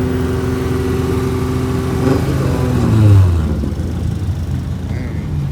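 A car engine held at steady revs for about two seconds, then falling in pitch as the revs drop, loudest about three seconds in before fading.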